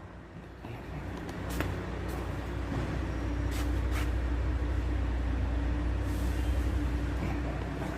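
A large vehicle's engine running steadily at idle, a low rumble with a faint steady tone above it, broken by a few sharp clicks.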